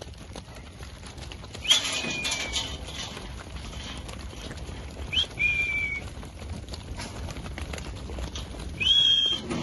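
Three short whistled commands to a working sheepdog, a few seconds apart. Each swoops up sharply and is then held, the first two sliding down a little and the last staying high.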